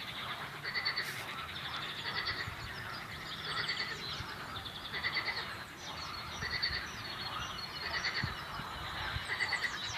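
A chorus of frogs croaking in short, rattling, pulsed calls that repeat about once a second, with birds chirping over them.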